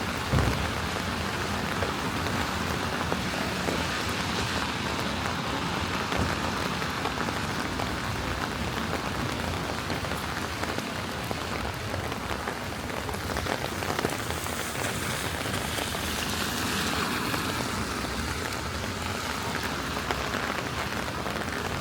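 Steady rain falling on a wet city street, with a short knock about half a second in.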